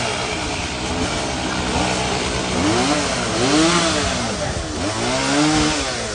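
Chainsaw cutting into a fallen tree, its engine pitch rising and falling over and over, over a steady lower engine hum.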